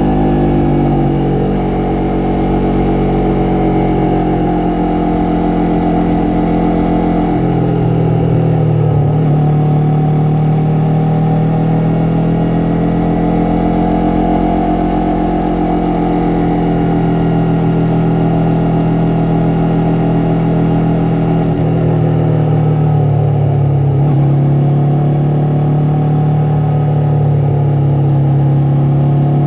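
Yamaha MT-03's 321 cc parallel-twin engine and exhaust running while riding. The revs hold steady, then drop and climb again a few times, about a second in, around eight to nine seconds in, and again past twenty seconds, as the throttle is eased and opened.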